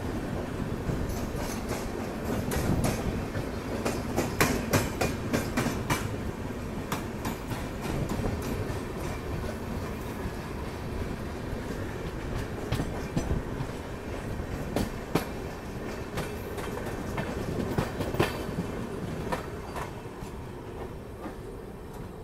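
Two passenger trains running side by side on adjacent tracks, heard from the open door of a moving coach: a steady rumble with irregular sharp clacks of wheels over rail joints. The clacks come thickest about four to six seconds in, again around eighteen seconds, and ease slightly near the end.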